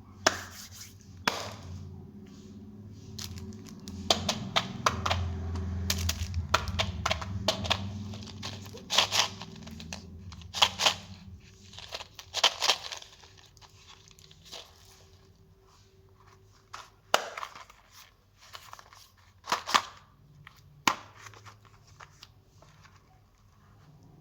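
Plastic candy wrappers being crinkled and torn open by hand: irregular sharp rustles and crackles, busiest in the first half, with a low hum under them for a few seconds.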